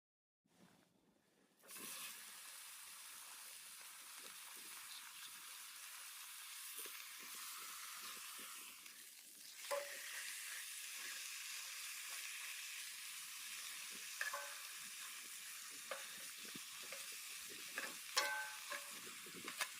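Food frying in a pan: a steady sizzle that starts about two seconds in, with a few sharp taps, probably of a utensil against the pan, in the second half.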